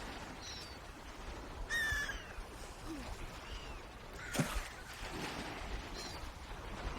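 Swans giving short, pitched calls several times, the loudest about two seconds in, over a steady background hiss; a brief knock sounds about four and a half seconds in.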